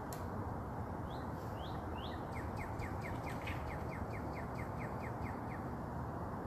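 A bird calling over a steady rushing background: three short rising notes, then a fast trill-like run of short repeated notes, about five a second, lasting about three seconds.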